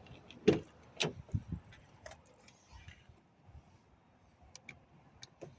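A few sharp clicks and knocks, the loudest about half a second in, then fainter ticks near the end: hands working a latch or fitting in a Nissan Frontier pickup's cab.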